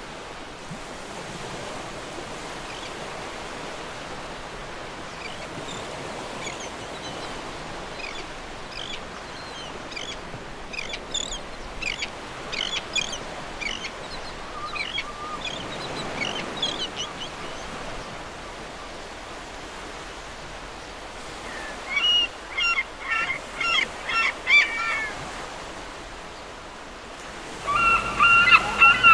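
Seagulls calling over a steady wash of surf: scattered short calls through the middle, a burst of louder calls about three-quarters through, then a loud run of quickly repeated calls starting just before the end.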